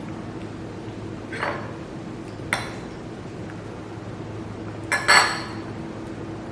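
A few clinks and taps of dishes and utensils on the table, the loudest a quick pair about five seconds in, over a steady low hum.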